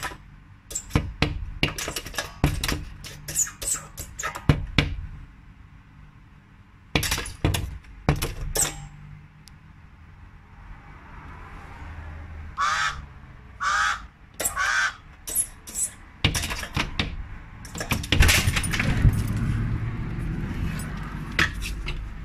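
Irregular knocks and clatters, with three short harsh bird calls about halfway through.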